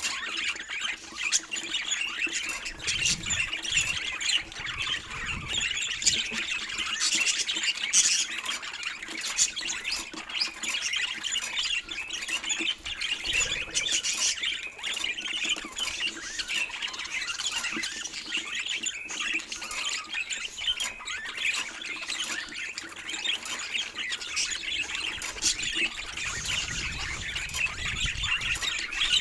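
A group of budgerigars chattering continuously: dense warbling and chirping, with many short, sharp calls.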